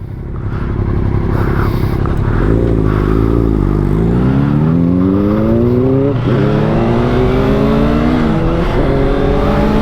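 Sport motorcycle engine accelerating hard, its revs climbing and then dropping sharply at upshifts about six and nine seconds in, with wind rushing past.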